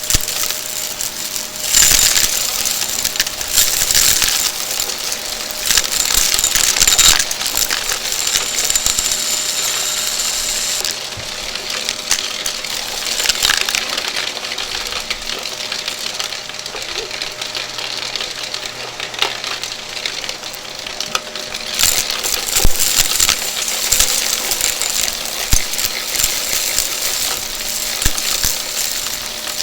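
Shark vacuum cleaner running with a steady motor hum, under dense crackling and rattling as crunchy debris is sucked up through it. The crackling is thickest in the first third and again in the last third.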